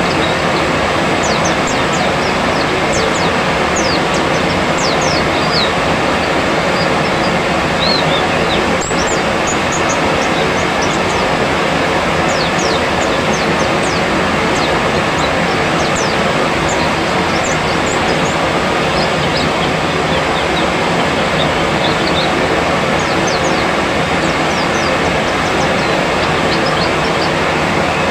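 Many white-eyes (pleci) giving short, thin, high calls, mostly falling in pitch, over a steady loud rushing noise.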